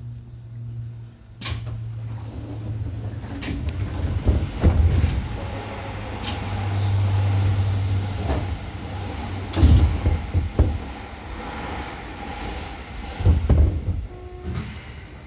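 A train passing at speed on the adjacent track, heard from inside a stopped train: a rush of wheel and air noise that builds about a second and a half in, with a few loud clunks as its wheels cross rail joints, then dies away near the end.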